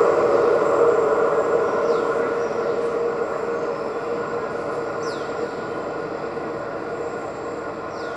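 Diesel-electric locomotive and cement freight wagons running down the line, the steady rumble of engine and wheels fading evenly as the train draws away.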